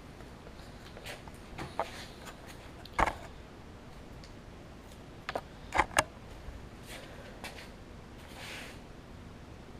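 Hands handling and applying stickers: scattered sharp clicks and taps, the loudest about three seconds and six seconds in, and a short rustle a little before the end.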